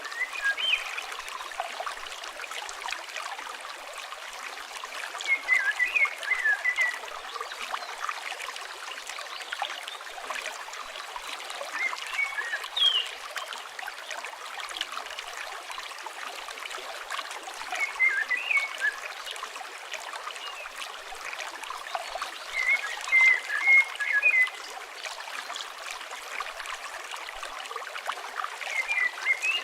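River water flowing steadily, with fine crackles through it, and a songbird singing short chirping phrases that come back about every six seconds.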